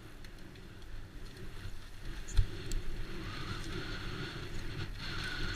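Trek Slash mountain bike riding down a trail: a steady low rumble with wind on the microphone, a sharp knock about two and a half seconds in, and a wavering whine in the second half.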